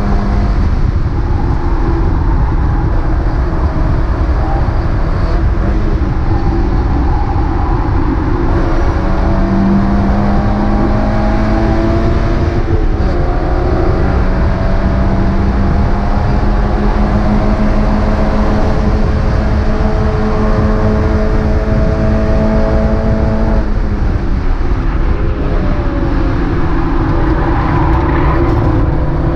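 Mazda MX-5 race car engine pulling hard, its pitch climbing slowly for a long stretch, then dropping abruptly about three-quarters of the way through before it climbs again, over steady road and wind noise.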